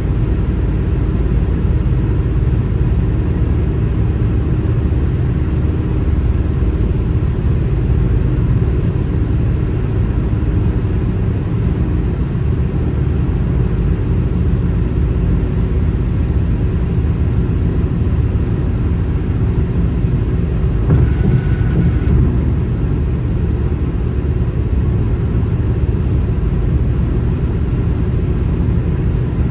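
Steady low rumble of a car travelling on a highway: continuous road and tyre noise. A brief brighter sound with a faint tone comes about two-thirds of the way through.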